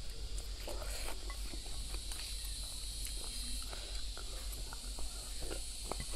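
Close-up eating sounds of pork spare ribs being bitten and chewed off the bone: many short, wet clicks and smacks of mouth and lips. A steady high chirring of insects runs underneath.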